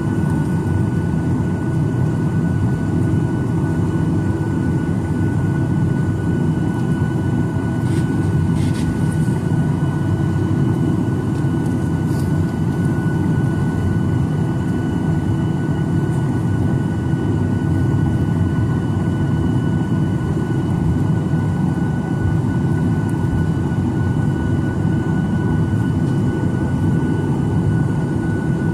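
Boeing 737-900ER's CFM56-7B jet engines heard inside the passenger cabin: a steady low rumble with a thin, even high whine over it. A couple of faint brief rattles come about eight seconds in and again about four seconds later.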